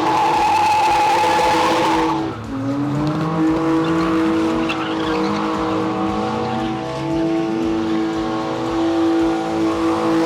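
Drift cars revving hard with tyre squeal: one engine is held at steady high revs while another's pitch rises and falls over and over. A loud tyre hiss drops away about two seconds in.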